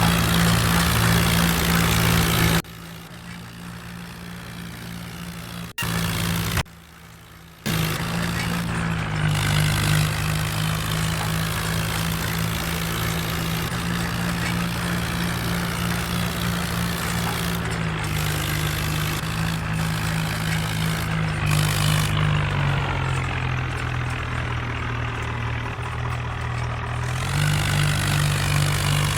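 Tractor engine running steadily, with the sound dropping out suddenly twice in the first eight seconds. Its speed sags a little about three quarters of the way through and picks up again near the end.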